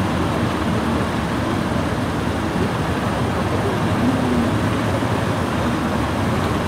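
Steady noise of motor vehicles running on a road.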